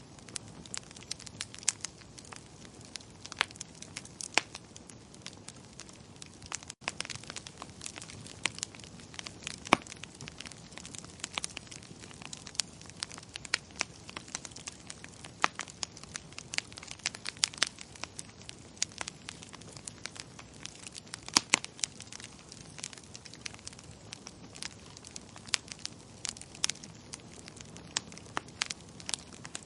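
Wood fire crackling in a fireplace: irregular sharp pops and snaps over a low steady hiss, with a momentary break in the sound about seven seconds in.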